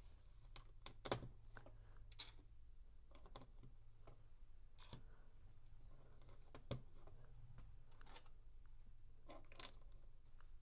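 LEGO plastic bricks being handled and pressed together: scattered light plastic clicks and taps, about a dozen, the sharpest about a second in and around six and a half seconds in.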